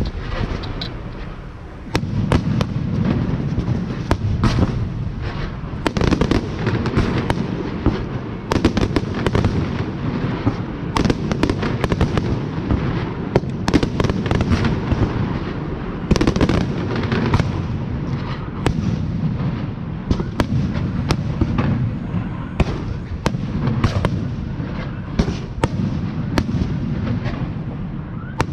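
Fireworks show: a dense, continuous barrage of rapid bangs and booms over a steady low rumble, with one big bang just after the start.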